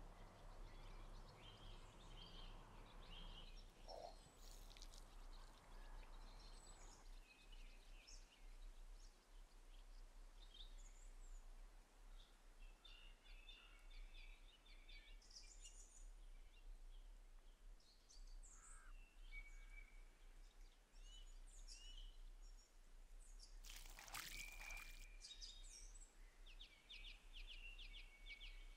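Near silence: faint outdoor ambience with scattered small bird chirps, and one brief louder burst of noise near the end.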